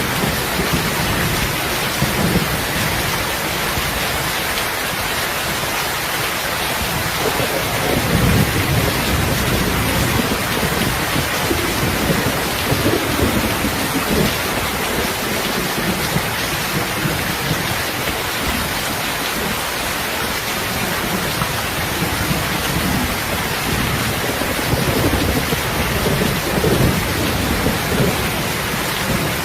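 Steady, loud rain, with low rumbles swelling up every several seconds and lasting a second or two each.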